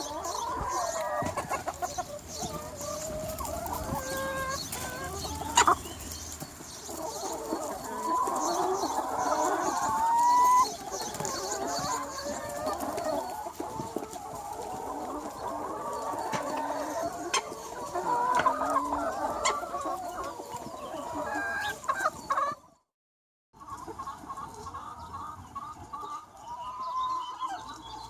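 A large free-range chicken flock clucking and calling over one another, a dense, continuous chatter of hens. About ten seconds in, one louder call rises in pitch and cuts off sharply. Near the end the sound drops out completely for under a second, then the clucking resumes, thinner.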